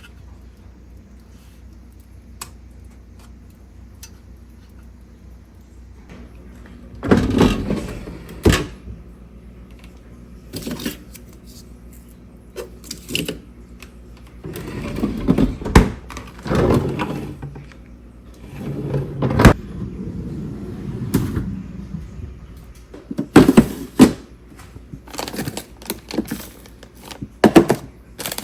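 Household items being handled and set down: irregular knocks, clatters and rustling, faint for the first few seconds and then a run of louder bumps.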